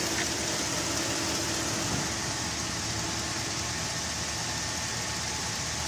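GMC Yukon engine idling steadily, running after a fix for low oil pressure to the valve train: the oil pickup tube was cleaned and its O-ring replaced.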